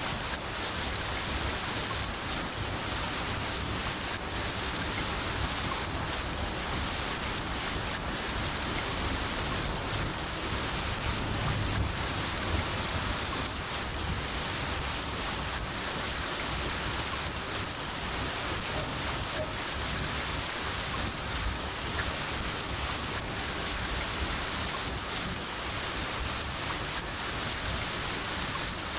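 A cricket chirping steadily, about three chirps a second, with two short breaks, over a steady hiss of rain and a low rumble of thunder.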